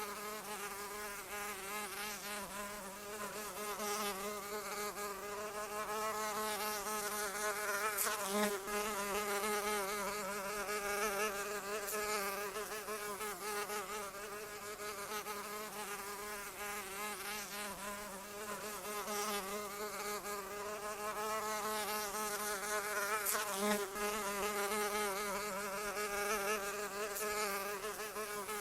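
Flying insect buzzing, a fly or mosquito wingbeat hum whose pitch wavers continuously. It swells a little twice, about a third of the way in and again near the end.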